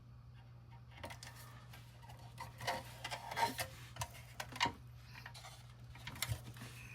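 Hands working a sticker decal: irregular light clicks and paper crinkling as it is peeled from its backing and pressed onto a toy truck, over a steady low hum.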